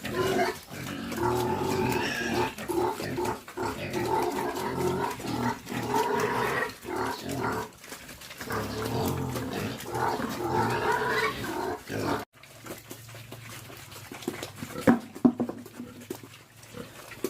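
Pigs grunting and squealing at feeding for about twelve seconds. Then the sound drops abruptly to a quieter low hum with a few sharp knocks.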